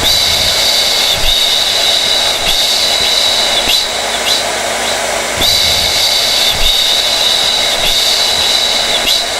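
Hair dryer running steadily: a loud rush of air with a high whine that wavers slightly every second or so.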